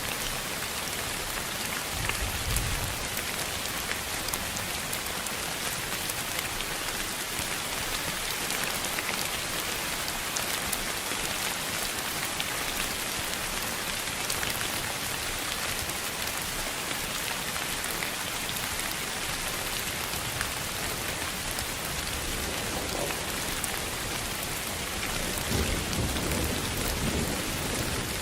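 Steady, even hiss of rain with fine drop ticks through it, and a low rumble like distant thunder about two seconds in and again near the end.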